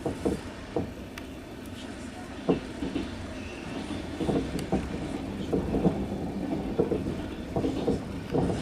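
Passenger train running, heard from inside the carriage: a steady low rumble with irregular knocks of the wheels over the rails.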